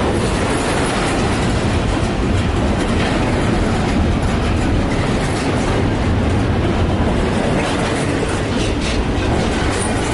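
Loaded double-stack container well cars rolling past close by: steady, loud wheel-on-rail noise with the clacking of wheels over rail joints.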